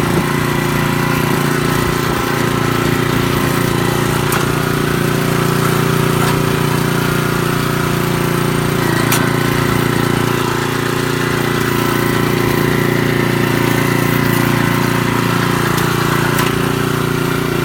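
Engine of a Chikusui Canycom BFP303 crawler carrier running steadily, with a slight dip in level about ten seconds in and a few sharp clicks.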